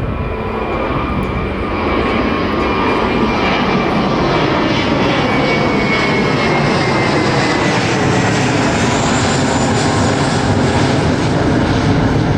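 Jet airliner taking off, its engines at full takeoff power giving a loud, steady rumble with a whine that slowly falls in pitch as the plane passes.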